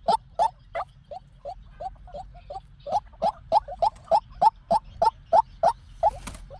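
White-breasted waterhen calling: a long run of short, repeated notes, about three a second, softer for a couple of seconds and then loud again, with a brief burst of noise near the end. This is the monotonous call that trappers play to lure the birds.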